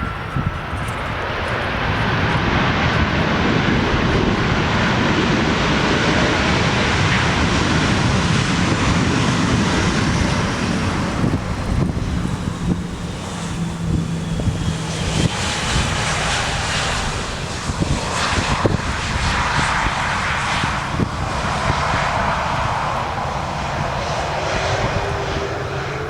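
Jet airliner engines passing close by: a broad roar that builds over the first few seconds, with a thin whine slowly falling in pitch, then turning uneven and gusty in the second half.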